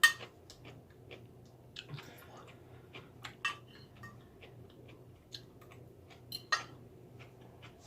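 Eating utensils clinking against dishes a handful of times, the first and loudest right at the start, with soft chewing between.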